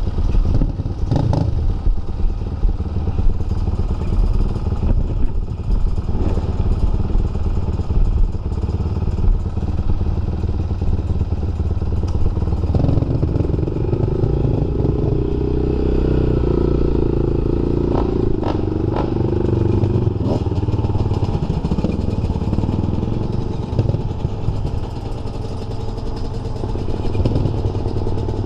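Dirt bike engine running while riding a trail, its note climbing and pulling harder from about halfway through before easing off again. A few sharp knocks and clatter come over the engine.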